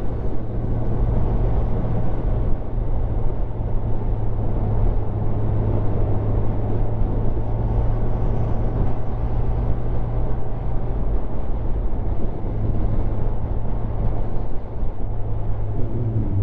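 Motorcycle on the move: a steady engine drone under constant wind rush, as picked up on the rider's helmet while cruising.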